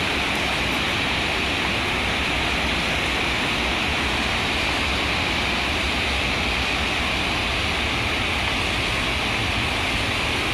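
Berkri waterfall's water falling in a steady, unbroken rush of noise.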